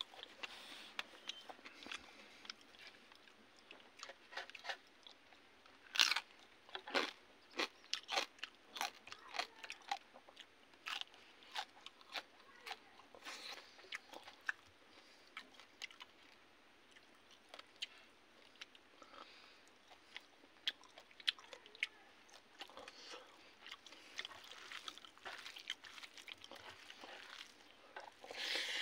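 A person chewing and crunching mouthfuls of rice and crisp fried fish eaten by hand, picked up close by a clip-on microphone. The crunches come irregularly, the loudest about six seconds in.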